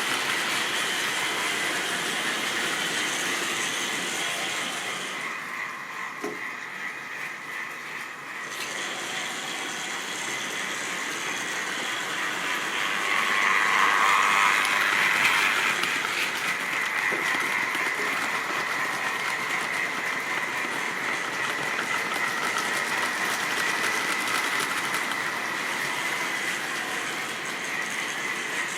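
Model railway train running along the track: a steady motor whine with wheels rattling on the rails. It grows quieter for a few seconds, then louder about halfway through as it comes close, then settles again.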